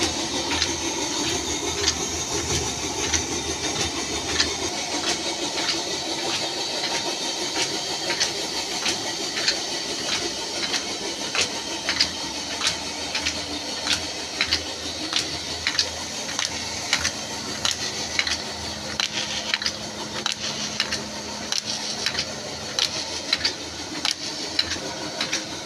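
Flour mill grinding wheat: a steady rushing noise with a regular ticking about twice a second.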